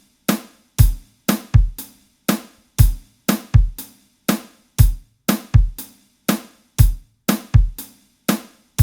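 A looped groove of recorded acoustic drum kit samples: kick, snare and hi-hat hits in a steady two-bar pattern, two to three hits a second. Each hit ends quickly, with little reverb tail left.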